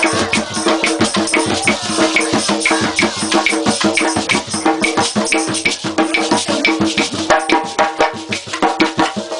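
Live folk music: hand percussion with shakers and drum playing a quick, steady rhythm over a few held notes, between sung verses.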